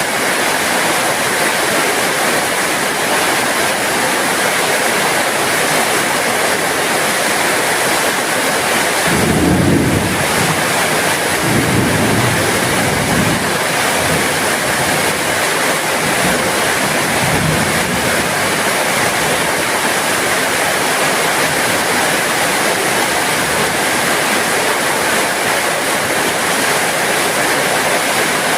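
Steady heavy rain falling. A few low rumbles come about a third of the way through and once more a little later.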